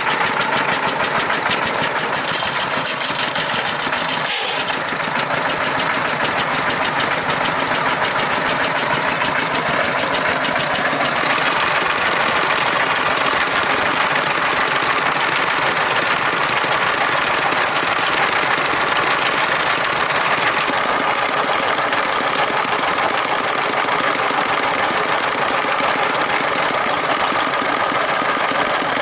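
Engine of a three-wheeled farm truck running steadily with a rapid, even chugging, and a single sharp click about four seconds in.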